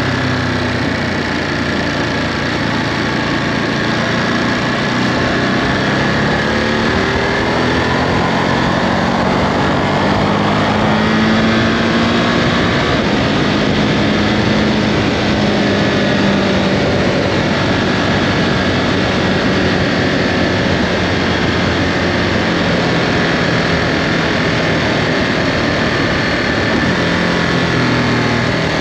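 Ducati Monster 937's L-twin engine through its stock Euro5 exhaust, running under way on the road. The engine note rises and falls several times as the bike accelerates and eases off.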